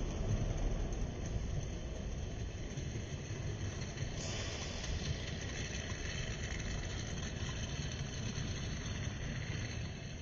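Steady low background rumble, with a hiss in the high range that grows louder about four seconds in.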